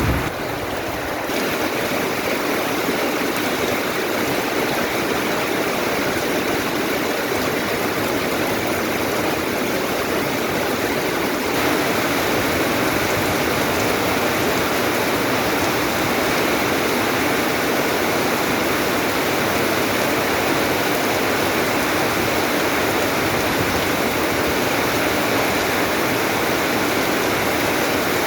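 Steady rushing water, an even hiss-like wash with no distinct drops or splashes, getting slightly louder about twelve seconds in.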